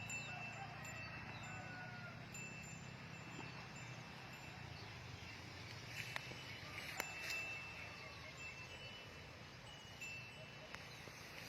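A high-pitched bell or chime ringing on and on with brief breaks, a few sharp clicks, and a faint low hum underneath.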